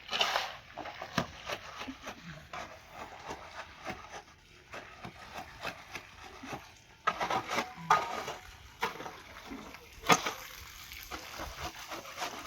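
Irregular clicks, knocks and clatter of handling objects, with a few louder rustling bursts about seven seconds in and around ten seconds.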